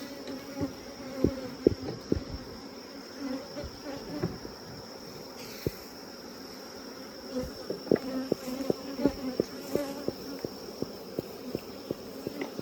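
Many honeybees buzzing around an opened hive, a wavering hum, with a scatter of sharp taps that come faster in the second half. The bees are agitated and defensive, stirred up further by the smoke.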